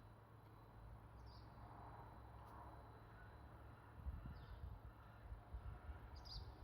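Near silence: faint background noise with a few short, faint high chirps and some soft low bumps in the second half.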